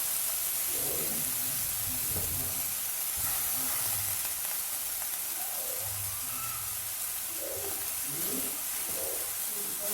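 Chopped onion and coriander sizzling in hot oil in a kadhai, a steady hiss.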